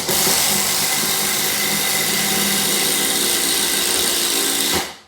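Milwaukee M12 Fuel impact driver drilling under load with a half-inch impact-rated drill bit, running steadily and stopping abruptly about five seconds in as the bit finishes the hole, very fast.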